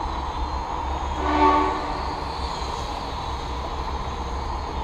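Syma X5C quadcopter's small brushed motors whining steadily as it flies slowly, over a steady low rumble. About a second in, a horn-like pitched tone sounds once for about half a second.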